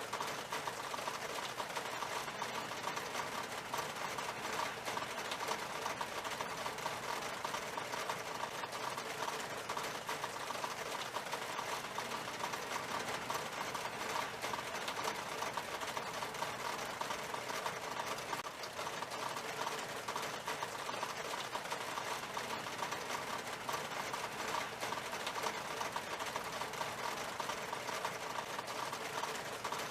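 Rain falling steadily on window glass: a dense, even stream of small drop taps.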